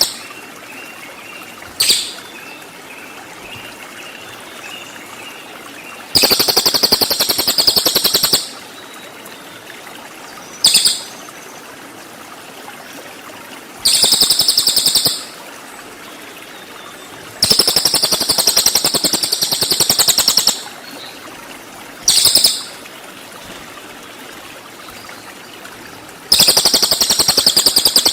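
Cililin songbird giving rapid, high-pitched rattling trills ('tembakan'). There are four long bursts of a couple of seconds each, with three short single bursts in between, over a faint steady hiss.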